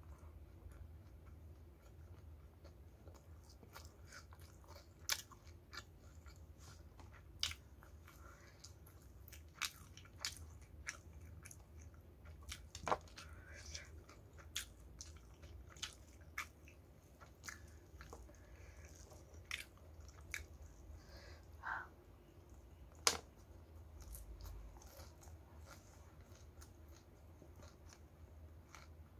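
Close-miked chewing and biting of crispy flour-battered fried chicken and rice eaten by hand, with many irregular short crunches and mouth clicks, a few of them sharper and louder. A steady low hum runs underneath.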